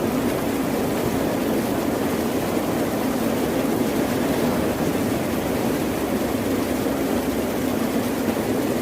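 Ocean surf as a steady, low rushing wash, with no single wave breaks standing out.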